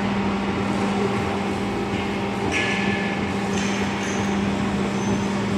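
W24S-series CNC hydraulic profile bending machine running with a steady hum, with a brief high squeal about two and a half seconds in and faint high tones after it.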